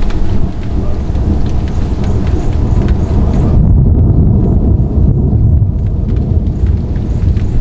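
Thunder rumbling long and loud, with rain falling.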